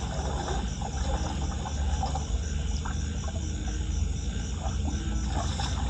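Crickets chirping in a steady, evenly pulsed trill over a low, steady rumble.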